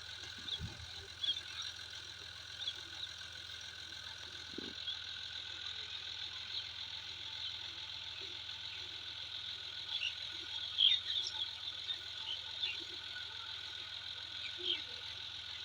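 Small birds chirping in short, scattered calls over a steady high hum, the chirps busiest about ten seconds in.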